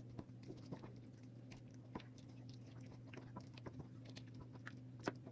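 Faint wet squelches and small clicks of hands rubbing a masala marinade into raw chicken pieces, scattered and irregular, over a steady low hum.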